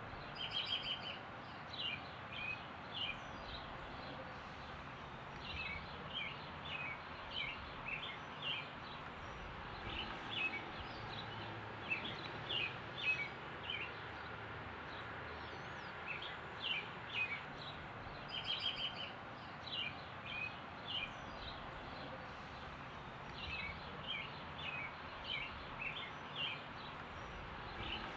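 Songbirds chirping in short clusters of quick calls, over a steady outdoor background hiss.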